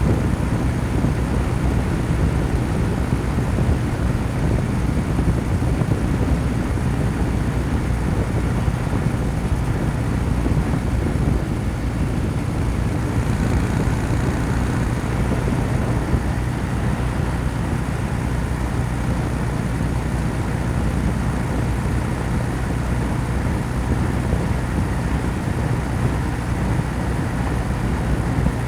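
Kawasaki W800's air-cooled parallel-twin engine running steadily at highway cruising speed, its exhaust note even, with no revving or shifting.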